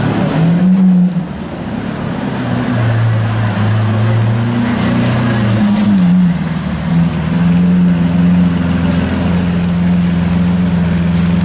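Lamborghini Aventador's V12 idling with a deep steady note, its pitch rising and falling briefly about a second in and again around five seconds in.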